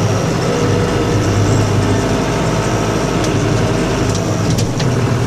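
Snowplow vehicle's engine running steadily, with a few brief clicks about three to five seconds in.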